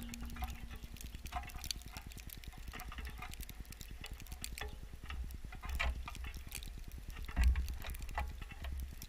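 Birds landing on and pecking at a bird feeder right by the microphone: irregular light taps and clicks, over a low rumble, with a louder low thump about seven and a half seconds in.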